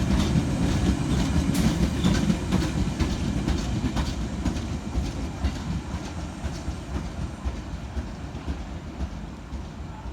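Central line tube train (1992 Stock) running on the rails, its wheels clicking over rail joints as the rumble gradually fades away.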